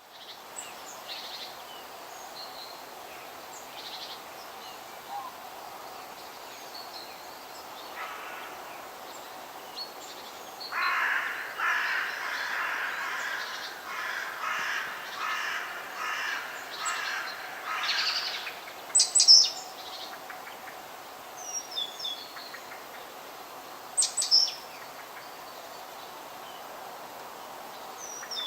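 Forest bird ambience over a steady faint background hiss. A bird gives a long run of rapidly repeated calls in the middle. A few sharp high chirps follow, with scattered quieter calls throughout.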